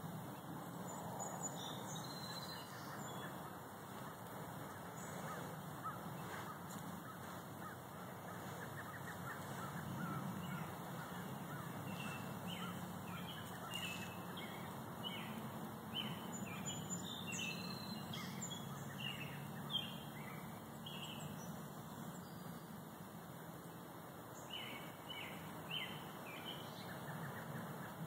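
Several songbirds chirping and calling in short, separate notes, sparse at first and busier through the second half, over a steady low hum.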